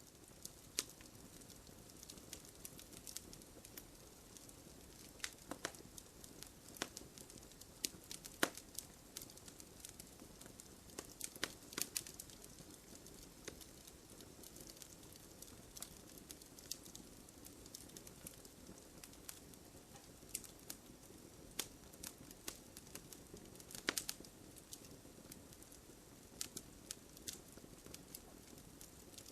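Wood campfire crackling: irregular sharp pops and snaps over a soft steady hiss, with a few louder pops scattered through.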